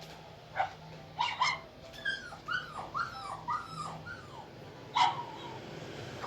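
Puppies barking: a few short, sharp, high yaps, and a run of about five rising-and-falling whining cries in the middle.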